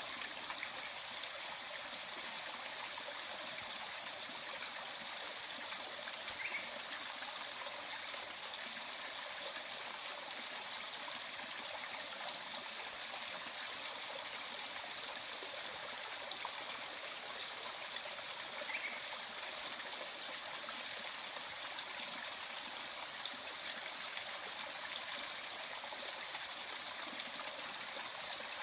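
Mountain stream flowing over rocks: a steady rushing and trickling of water with no change. Two faint short high chirps come through the water about six seconds in and again near the middle.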